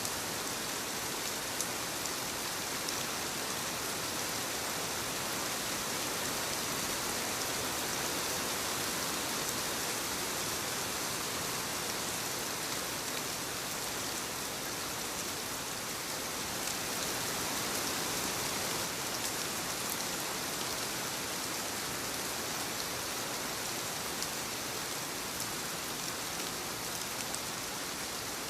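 Steady rainfall, an even hiss with scattered drops pattering on surfaces.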